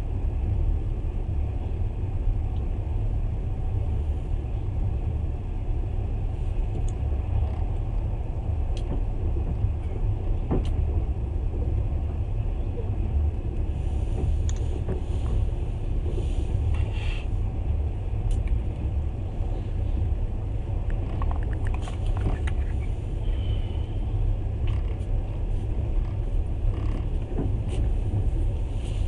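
Passenger train running at speed, heard at the carriage window: a steady low rumble with scattered faint clicks.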